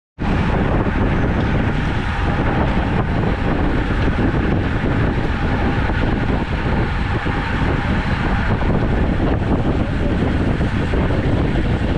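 Wind buffeting the microphone of a camera riding along on a road bike, a loud steady rumble.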